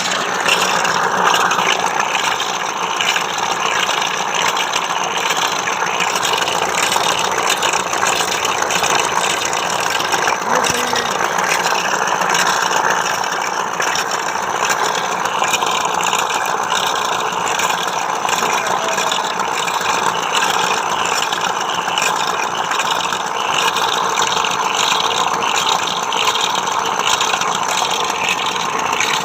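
Tata Intra V30 pickup's diesel engine idling steadily with a dense mechanical rattle; the truck has a low-oil-pressure fault.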